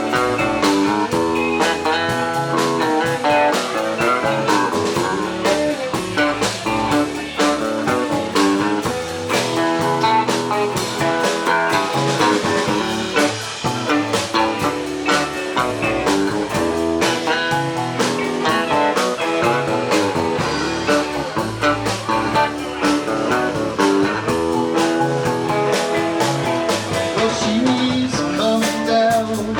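Live band with electric lead and rhythm guitars and bass playing an instrumental jam passage, with no singing.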